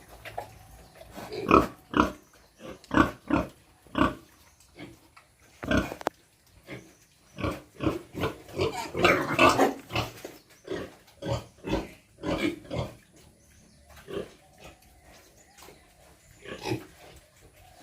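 Farm pigs grunting in many short, irregular grunts, with a louder, longer outburst of several pigs about nine seconds in.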